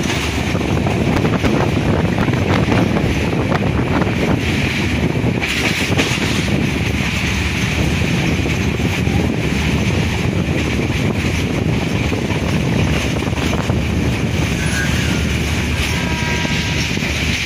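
Steady rush of wind buffeting the microphone at an open window of a moving passenger train, over the train's running noise.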